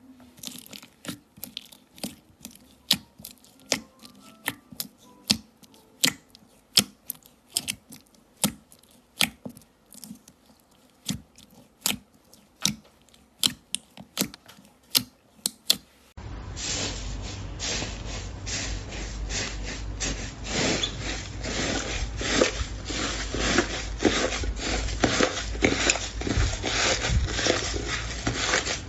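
Slime being handled, making a run of sharp separate pops and clicks about two a second. About sixteen seconds in a new clip starts with denser, continuous crackling and squishing over a low rumble.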